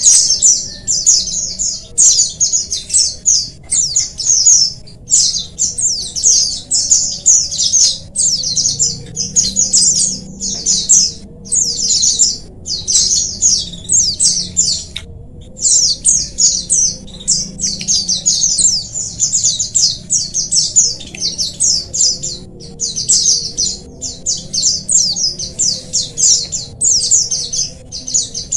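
A flock of white-eyes twittering without pause, many high, thin chirps overlapping in quick runs with only brief gaps.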